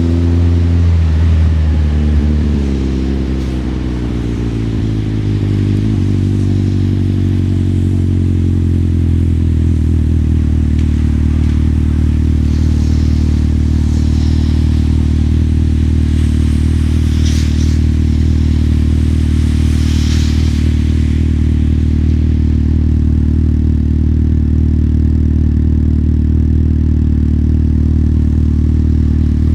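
Motorcycle engine slowing down, its pitch falling over the first few seconds, then idling steadily. A few brief hisses come through around the middle.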